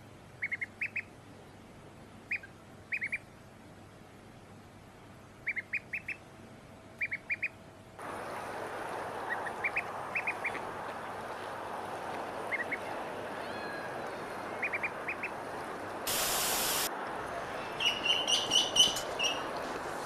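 Ducks quacking in short, quick runs of two to four calls. About eight seconds in, a steady rushing background comes in. Near the end there is a brief loud hiss, then louder, clearer calls.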